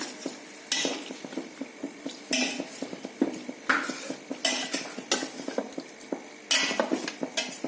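Spoon stirring thick chicken curry in a cast iron kadai, scraping against the pan about once a second, with a faint sizzle under it.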